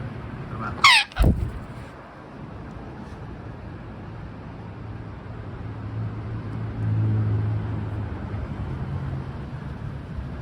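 A Patagonian conure gives one short call, falling in pitch, about a second in, followed by a low thump. After that a steady low drone of traffic runs on, with an engine hum swelling around seven seconds in.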